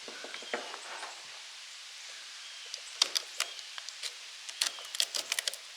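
Sharp, irregular clicks and snaps of old varnished motor windings and their hand-tied cord coming apart as the coils are pulled loose. A few faint clicks at first, then a dense run of cracks from about halfway through.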